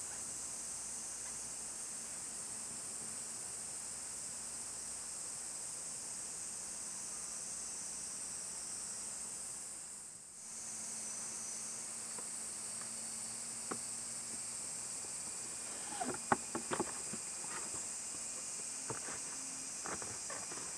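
A steady high hiss, dipping briefly about halfway through, with a few light knocks and clicks in the last seconds, most of them bunched together a few seconds before the end.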